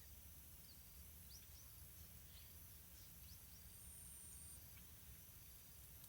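Near silence: faint outdoor ambience with scattered short, high bird chirps and a steady faint high-pitched whine.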